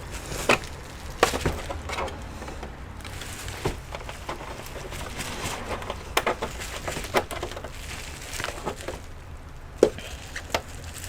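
Irregular clicks and knocks of hands working on an opened all-in-one computer's plastic casing and internal parts, with a sharper knock near the end.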